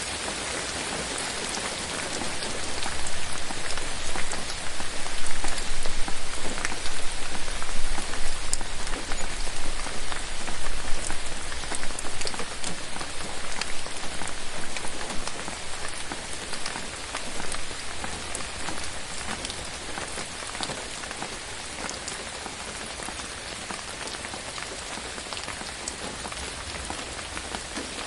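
Rain falling on forest leaves: a dense, even patter with individual drops ticking through it. It swells louder a few seconds in and eases again about halfway through.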